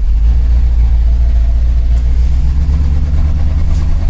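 1986 GMC Jimmy's engine running under way as the truck drives off, a loud steady low rumble.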